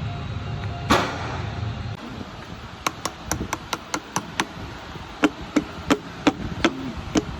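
A rapid, irregular run of sharp metal strikes, a dozen or more at several a second, like a hammer tapping on metal. Before them comes a steady low rumble with a single loud knock.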